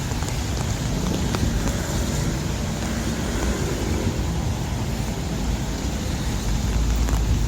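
Rainy city street ambience: a steady low rumble of passing traffic under an even hiss of rain and wet road noise.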